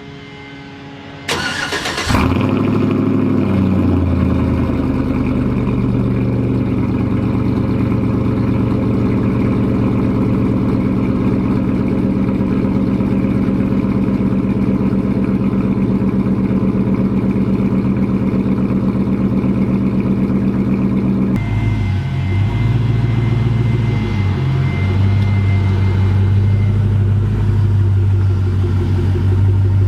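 A pickup truck's engine cranked and started: a brief burst of cranking, then the engine catches and settles into a steady idle. Its note shifts about two-thirds of the way through and then runs steadily again.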